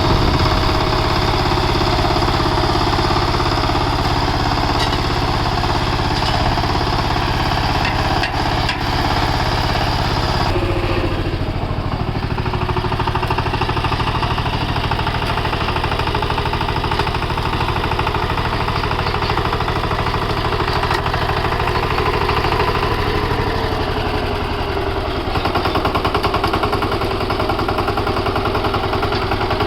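Single-cylinder diesel engine of a VST Shakti 130 DI power tiller running steadily with a clattering beat. About ten seconds in the sound turns abruptly duller, and later the engine note drops slightly.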